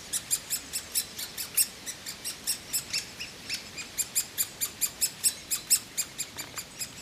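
Great spotted woodpecker nestlings begging: a fast, steady run of short high-pitched calls, about six a second.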